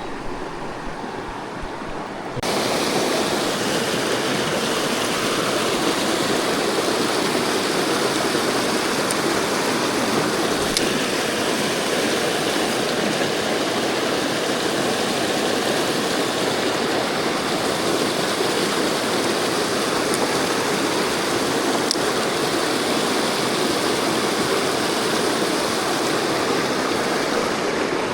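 Mountain stream water rushing steadily, a continuous hiss of flowing water that jumps suddenly louder about two seconds in.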